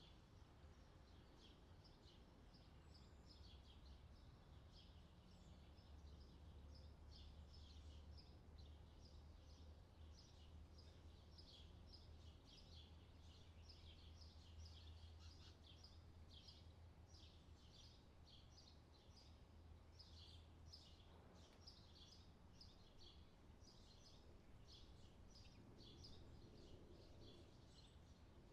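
Faint outdoor summer ambience: many small birds chirping continuously over a low steady rumble.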